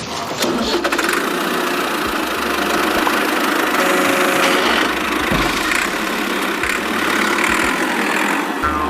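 A tractor engine running steadily at idle.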